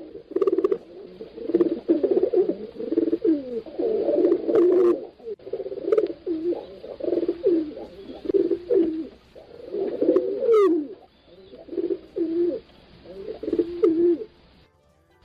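Pigeons cooing: low, throaty coos repeated over and over, several phrases overlapping.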